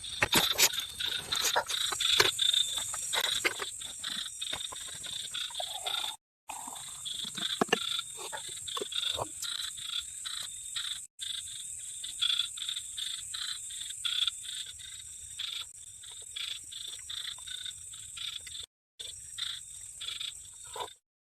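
Frogs and insects calling in a steady high trill, with many irregular sharp clicks and knocks over it. The sound drops out abruptly to silence a few times.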